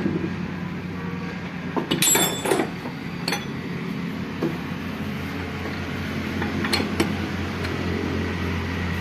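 Metal tools and steel gearbox parts clinking and tapping against each other, a quick cluster about two seconds in and a few single knocks later, over a steady low drone.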